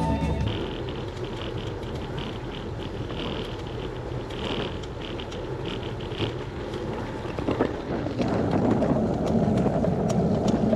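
Bicycle ride heard from the bike: wind on the microphone, with light creaks and ticks from the bicycle. A louder low rumble builds from about eight seconds in.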